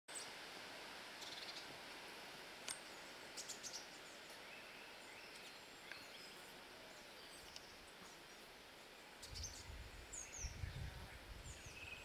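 Small birds chirping in the trees: scattered short, high chirps over a faint, steady outdoor hiss. From about nine seconds in, an uneven low rumble sets in on the microphone.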